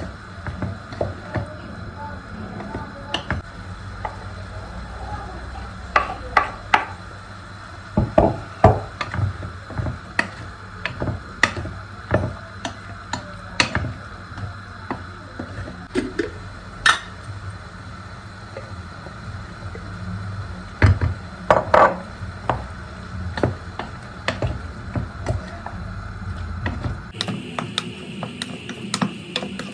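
Scattered knocks, taps and clicks of objects being handled and set down, over a steady background hum. The background changes abruptly near the end.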